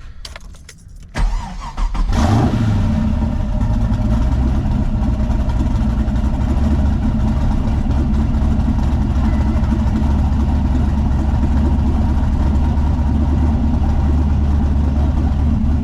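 LS V8 engine in a twin-turbo Nissan 300ZX cranking briefly about a second in, catching with a short rev flare, then settling into a steady idle.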